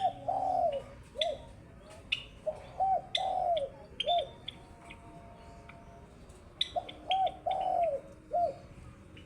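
Java sparrow chirping with short, sharp clicking notes, over three phrases of louder, lower cooing notes from another bird, each phrase a few arched notes long and about three to four seconds apart.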